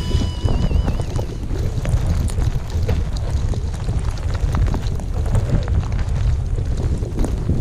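Strong blizzard wind buffeting the microphone: a steady, heavy low rumble with scattered small ticks.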